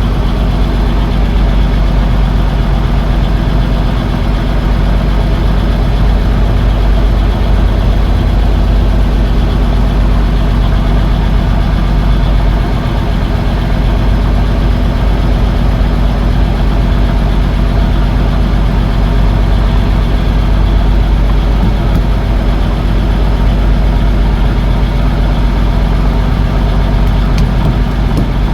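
Fishing boat's engine running steadily at a constant speed, a loud low hum that does not change.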